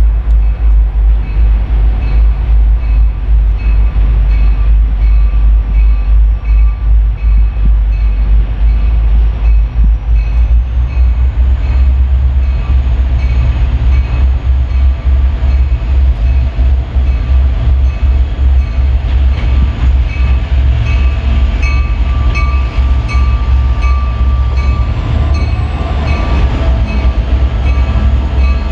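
A train running: a heavy, steady low rumble with rail and wheel noise.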